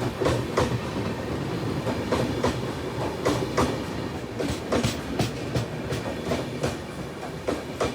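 Passenger train coach running along the track: a steady rumble with frequent sharp, irregular clacks of the wheels on the rails.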